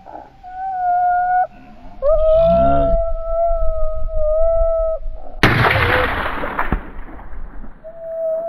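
Coyote howls, long steady held notes, then about five seconds in a single rifle shot with a long fading echo.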